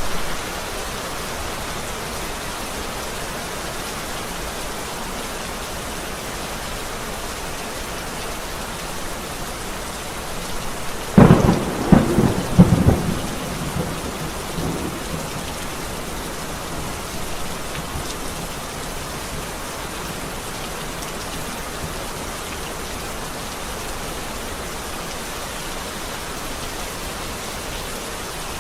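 Steady heavy rain hissing, broken a little over a third of the way in by a close thunderclap: several sharp cracks in quick succession over about two seconds, then a rumble that fades back into the rain.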